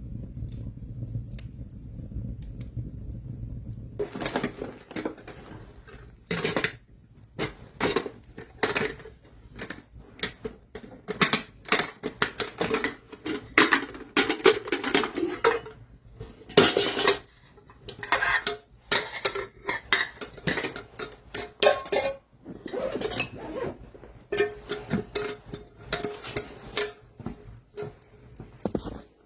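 Metal pots, dishes and utensils clinking and knocking together in an irregular run of sharp strikes with short ringing tones, starting about four seconds in after a low steady rumble.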